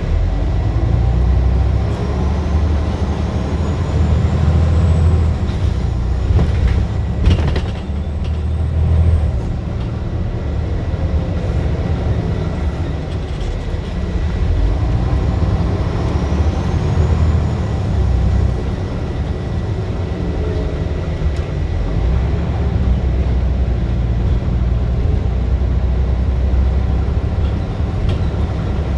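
Scania bus diesel engine pulling hard under acceleration. Its pitch rises and falls back twice as it works up through the gears, with a sharp knock about seven seconds in.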